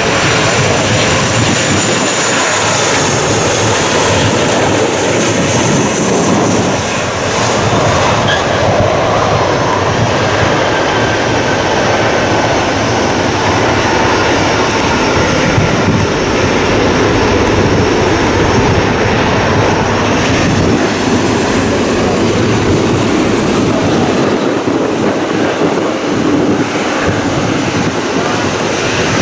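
A train passing close by: a loud, steady rush of wheels on rail that does not let up.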